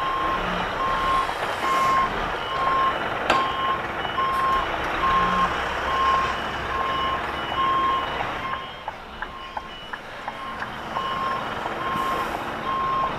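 Reversing alarm of a Scania articulated lorry backing up, a single-pitched beep repeating evenly over the running diesel engine. A sharp click about three seconds in.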